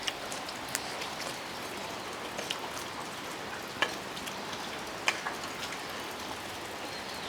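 Steady rain falling, with a few sharp clicks now and then.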